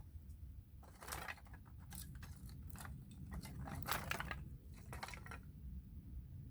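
Split oak firewood being handled and stacked: several bouts of dry, crunchy wood-on-wood scraping and knocking between about one and five and a half seconds in, over a steady low rumble.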